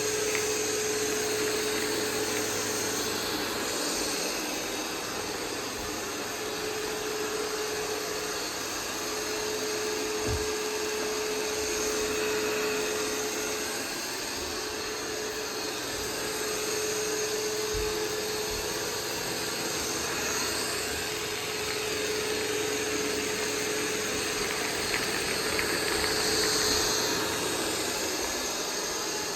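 iRobot Roomba 505 robot vacuum running: a steady whir of its motors and brushes over a held whining tone, with a low knock twice.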